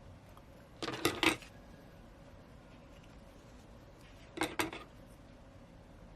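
Small hard objects clinking and tapping on a work surface in two short clusters of clicks, about a second in and again about four and a half seconds in, as tools or phone parts are handled and set down.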